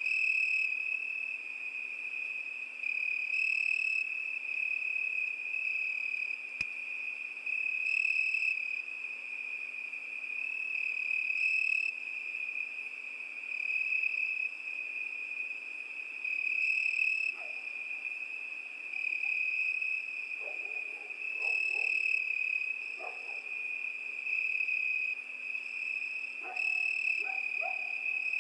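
Cricket trilling without a break on one high pitch, its loudness swelling and easing every few seconds. From about halfway in, faint short low calls come through beneath it.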